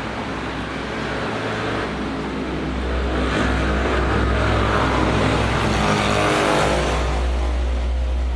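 A motor vehicle passing by: a steady low rumble with a noisy swell that builds and fades in the middle.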